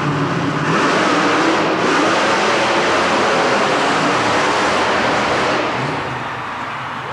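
Monster truck engines running hard at full throttle, loud in the arena; the noise swells about a second in and eases off near the end.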